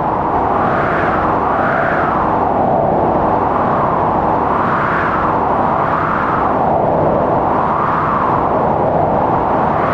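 Strong blizzard wind howling steadily, its pitch rising and falling in gusts about once a second.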